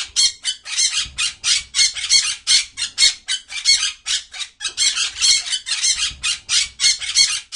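Parrot squawking: a fast run of short, harsh calls, about four a second, that stops suddenly at the end.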